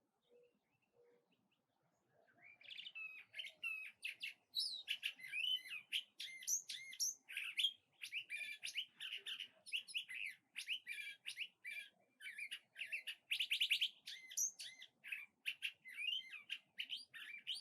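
A songbird singing a long, rapid, varied song of quick whistled and warbled phrases, starting about two seconds in and running on without a break.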